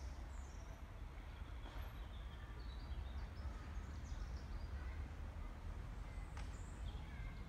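Small birds chirping, with short high calls scattered throughout, over a steady low background rumble.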